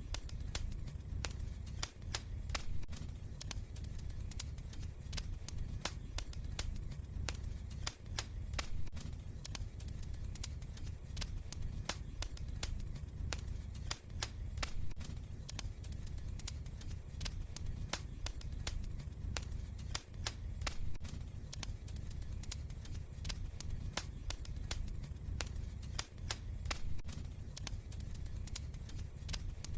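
Wood fire crackling, with frequent sharp pops and snaps over a low steady rumble. The same pattern recurs about every six seconds.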